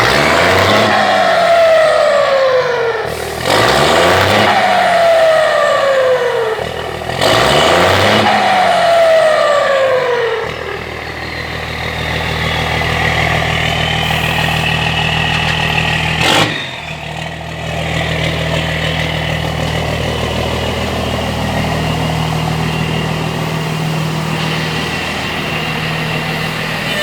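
Iveco Tractor truck's diesel engine revved three times. After each rev the turbo, fitted with a 'pente' insert to make it sing, whistles down in pitch as it spools down. The engine then idles with a steady high turbo whistle, broken by a short sharp burst about sixteen seconds in.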